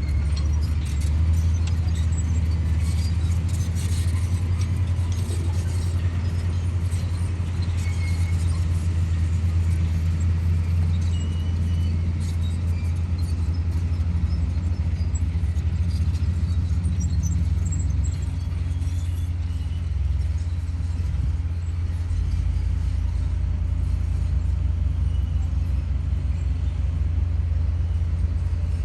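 Komatsu D58E bulldozer's diesel engine running steadily under load, a loud low drone, with scattered high squeaks and clicks that thin out after about 18 seconds; the engine note drops lower about 22 seconds in.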